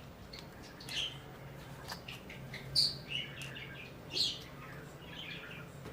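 Scattered short, high chirps from a small bird, a few a second in loose clusters, over a faint steady low hum.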